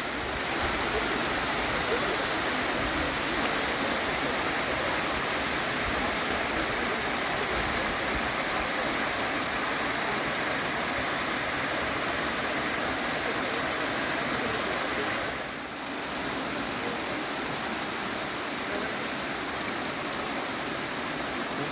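Steady rushing water of a mountain stream or waterfall. About three-quarters of the way through it dips briefly, then carries on a little quieter and less bright.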